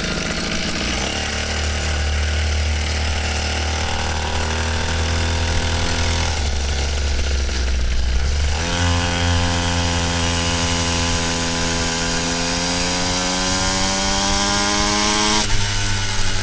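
Coolster 49cc two-stroke pit bike engine running at a steady buzz. About eight and a half seconds in it goes to higher revs and the pitch slowly climbs, then it drops back near the end.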